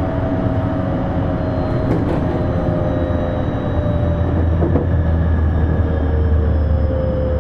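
Electric commuter train heard from inside the carriage: a steady low rumble of wheels on rail with a few light knocks, under the whine of the traction motors, which slowly falls in pitch as the train slows down.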